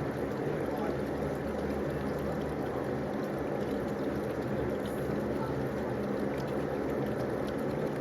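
Swimming-pool water running and pouring steadily, an even rushing noise with a faint steady low hum beneath it.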